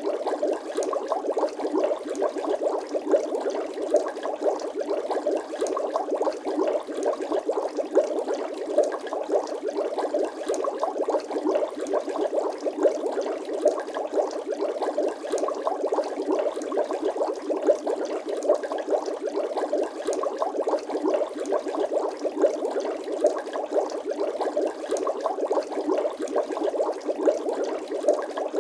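Bubbling-water sound effect: a steady, dense stream of small bubble pops.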